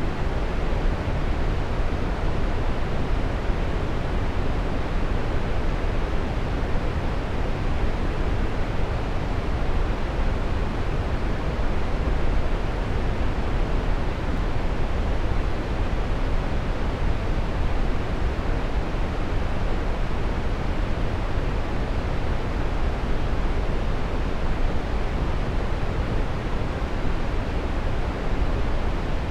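Waterfall: a steady, unbroken rush of falling water, deep and even.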